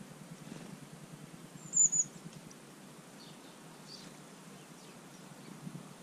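A small garden bird gives a short, very high two-note call about two seconds in, followed by a few fainter high chirps, over a faint steady low hum.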